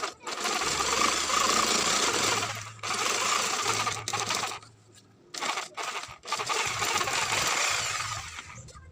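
A power tool working, most likely on the wood of a speaker box, running in three bursts of a few seconds each with short stops between them.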